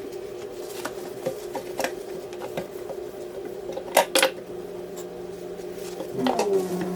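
A steady mechanical hum with scattered clicks and knocks of handling, two sharp ones about four seconds in. Near the end a louder hum sets in after a brief falling pitch.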